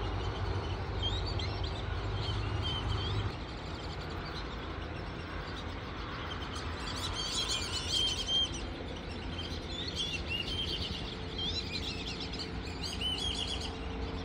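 Birds chirping in short clusters of high, rising and falling calls, with a low rumble underneath that stops about three seconds in.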